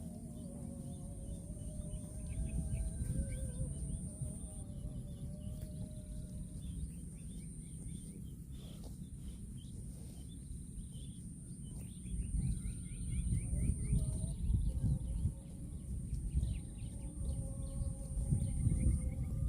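Rural outdoor ambience: small birds chirping on and off over a steady high-pitched whine, with low rumbling noise that grows louder after about twelve seconds.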